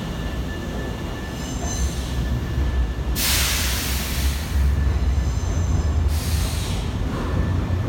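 Nankai electric train rumbling low through the station, with thin, high wheel squeals and two loud bursts of hiss a few seconds apart.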